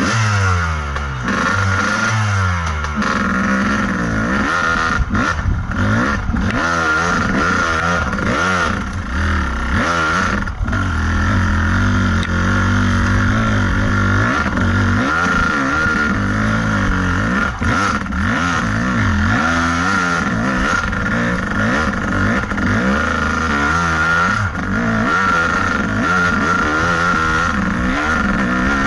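Kawasaki KDX220's two-stroke single-cylinder engine under load on a dirt trail, revving up and falling back again and again, with a few sharp knocks and clatter from the bike over the ground.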